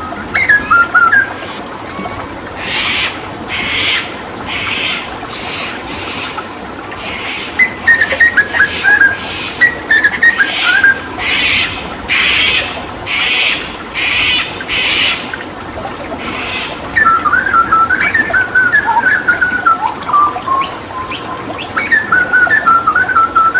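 Hooded butcherbird singing in quick chattering runs of short notes, with a long series of harsh, noisy notes about one a second in the middle. Steady running water underneath.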